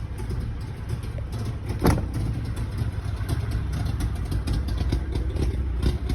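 1961 DKW 750 Junior's three-cylinder two-stroke engine idling steadily, warming up after a cold start with no choke. A single sharp click about two seconds in.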